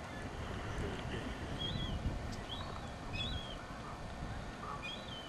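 Small birds chirping in short, separate rising-and-falling calls, about one to two a second, over a steady low rumble.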